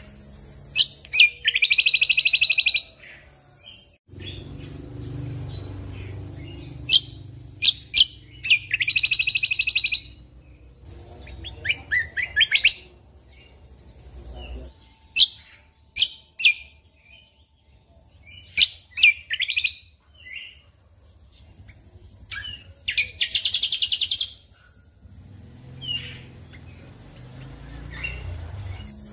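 Cucak kombo songbird singing: sharp whistled notes and chirps broken by three long, rapid buzzing trills, each lasting a second or two.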